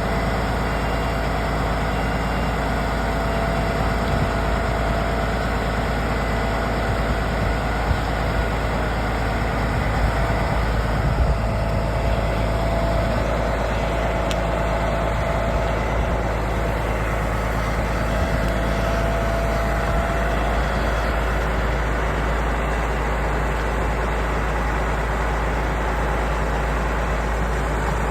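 Heavy vehicle engine running steadily at a low, even speed.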